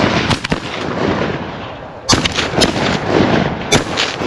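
Several shotgun shots in an uneven series, the loudest a little past halfway, fired at wounded geese swimming on the water.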